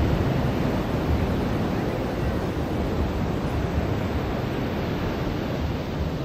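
Ocean surf washing on a beach: a steady wash of breaking waves, slightly louder at first and easing a little later.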